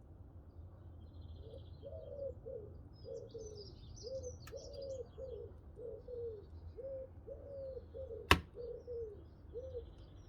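A bird cooing a long run of low notes, about two a second, while small birds chirp high above. One sharp pop from the burning logs in the cast iron wood stove, the loudest sound, comes about eight seconds in, with a fainter one near the middle.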